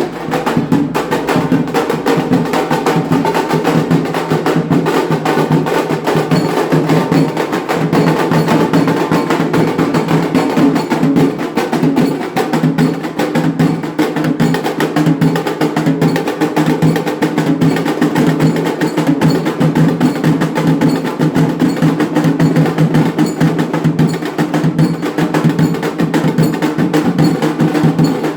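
Indian wedding band (band baaja) playing: fast, dense drumming under a steady, sustained melody line.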